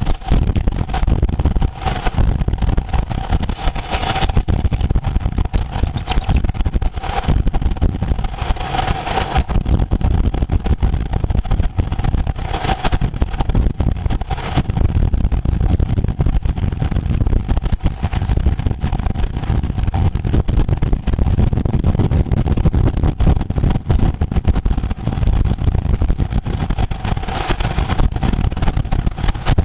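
Wind rushing and buffeting over the microphone of a camera carried on a moving road bike, with a steady hum underneath and a few brief louder gusts.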